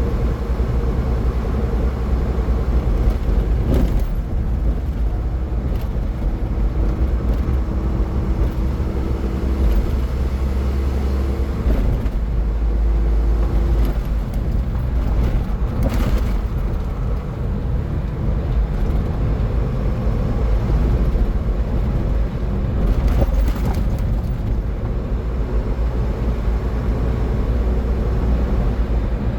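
A car driving on a highway: a steady low rumble of tyres and engine with a constant hum, and a few brief rushing swells about 4, 6, 16 and 23 seconds in.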